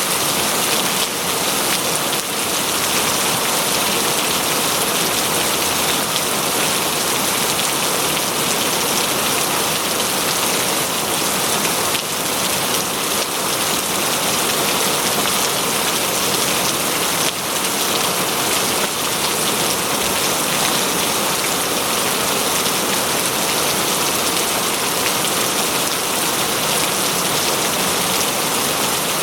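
Steady rain falling in a forest, a dense even hiss of drops on leaves and ground without letting up.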